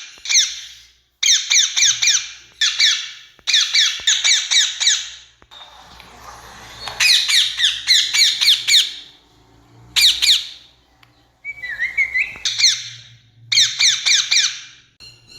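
Rose-ringed parakeets (Indian ringneck parrots) calling: repeated bursts of rapid, shrill, harsh screeches, several notes to a burst, with short irregular pauses between bursts. A faint low hum runs underneath.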